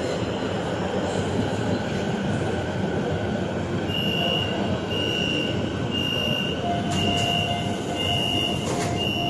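Steady running and rumble noise inside a metro train carriage. From about four seconds in, a high electronic beep repeats about once a second, six times.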